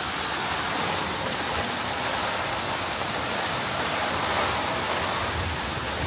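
Heavy rain pouring onto a swimming pool and its tiled deck, a steady, even hiss.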